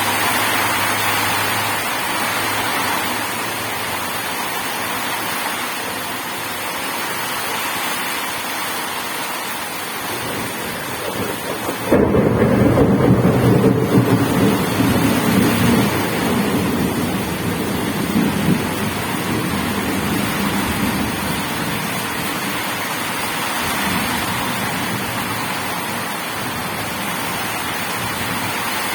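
Steady rain falling, with a sudden crack of thunder about twelve seconds in that rolls on as a low rumble and fades away over the next several seconds.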